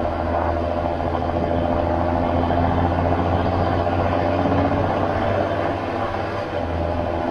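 John Deere 7530 Premium tractor's six-cylinder diesel engine running steadily while drawing maize, a deep even drone that dips briefly about six and a half seconds in.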